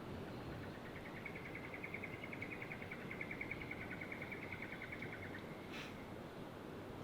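Outdoor ambience with a steady low rumble of background noise. A small animal's high, rapidly pulsing trill starts about a second in, runs for about five seconds and ends in a sharp click.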